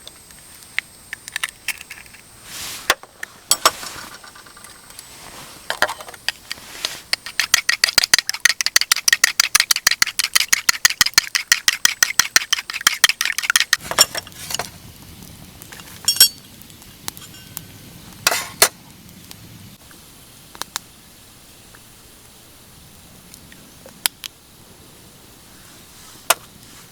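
Cooking utensils clinking against camp cookware: scattered knocks, then a fast even run of light clicks, about eight a second for some six seconds, with a few more knocks after.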